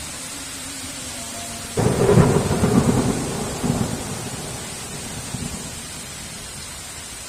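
Steady heavy rain. About two seconds in, a sudden thunderclap cracks and rumbles, with a second surge a couple of seconds later, then dies away over a few seconds.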